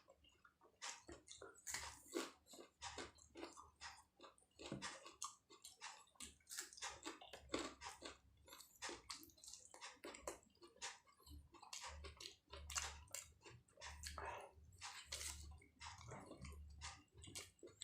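Close-miked eating sounds of a person chewing and biting martabak telur, a fried egg-filled pastry, heaped with raw bird's-eye chillies. The sound is a dense, irregular run of wet mouth clicks several times a second, with a few low dull thumps in the second half.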